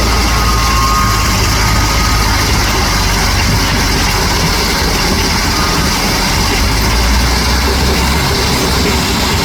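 Heavy engine idling steadily with a deep low rumble, with a faint short high whine about half a second in.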